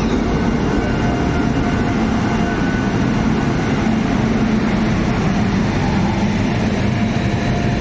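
Indian Railways WAP-7 electric locomotive passing slowly at close range: a steady, loud rumble of the locomotive and its wheels on the rails, with a faint hum of steady tones above it.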